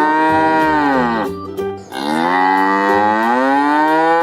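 Cow mooing: two long moos, each rising and then falling in pitch. The first ends just over a second in, and the second begins about two seconds in.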